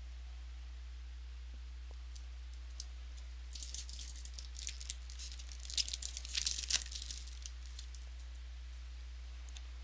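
Trading-card pack wrapper being torn and crinkled by hand: a few seconds of crackly rustling that peaks about two-thirds of the way in.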